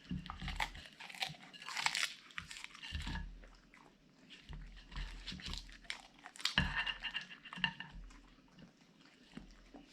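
Siberian husky crunching and chewing food: irregular crunches and bites, loudest around two seconds in and again near seven seconds.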